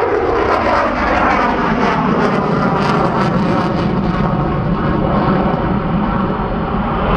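Boeing F/A-18E/F Super Hornet's twin General Electric F414 turbofans heard in flight: loud, steady jet noise, a deep rumble with a rushing hiss on top.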